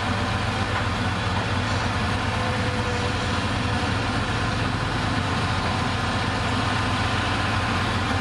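Diesel engine of a heavy earthmoving machine idling steadily with a low, even hum.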